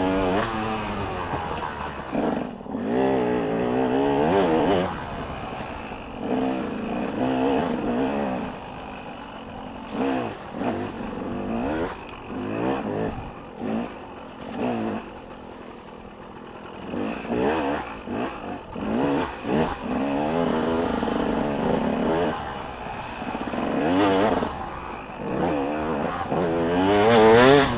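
Motocross dirt bike engines revving hard and backing off over and over as bikes pass, the pitch climbing and dropping through the gears, with the loudest pass near the end.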